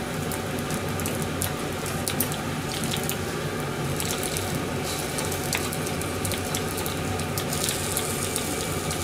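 Omelette-wrapped sandwich pieces frying in a black iron skillet: a steady sizzle with scattered small crackles.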